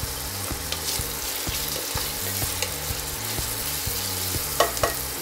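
Chopped onions and freshly added green chillies sizzling in hot oil in a pressure cooker, being stirred with a wooden spatula; two sharper scrapes near the end.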